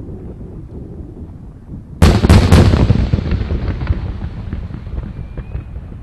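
Aerial fireworks shells bursting: three sharp booms in quick succession about two seconds in, then a long rolling echo that dies away over a few seconds, over a low rumble of earlier bursts.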